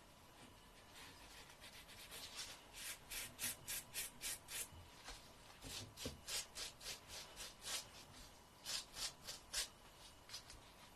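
Fingernail being filed with a nail file: a run of quick, light rasping strokes, about three a second, with short pauses between runs.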